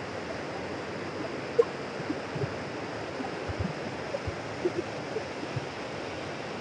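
Steady rush of the Nyamindi River's flowing water, with a few faint short clicks now and then.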